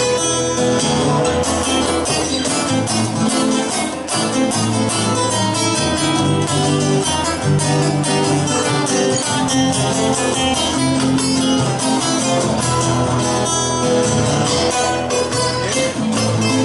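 Two guitars playing a Spanish-style instrumental: a rhythm guitar strumming chords under a lead guitar picking quick runs of notes.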